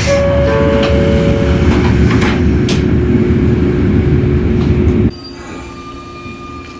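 A 115-series train's two-tone door chime alternates for about a second and a half. Under it is a steady low rumble with a hum, with a couple of knocks near the middle. The rumble cuts off suddenly about five seconds in, leaving it much quieter.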